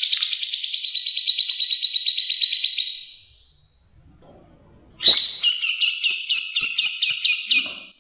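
White-rumped shama (murai batu) singing: a rapid, even trill that fades out about three seconds in, then after a short pause a second trilled phrase opening with a sharp note.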